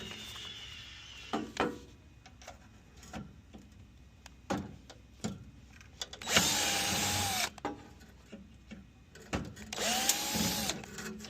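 A handheld power tool runs in two short bursts of about a second each, its motor pitch rising as it spins up and dropping as it stops. Scattered knocks and clicks from metal parts being handled come between the runs, as a water heater is taken apart.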